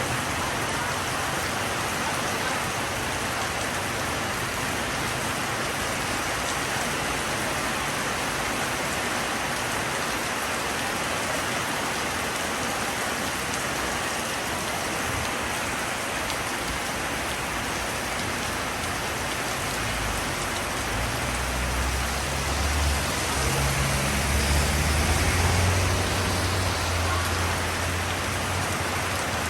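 Steady rain falling, an even hiss throughout. In the second half a low rumble swells in, grows loudest a few seconds before the end, then fades.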